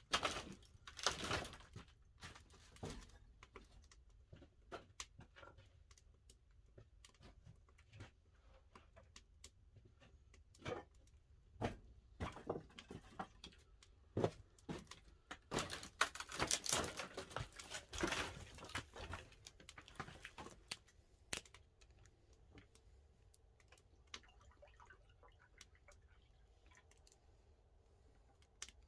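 Pine firewood burning in a wood-fired kiln's firebox, crackling and popping irregularly, with thicker bursts of crackle near the start and about halfway through.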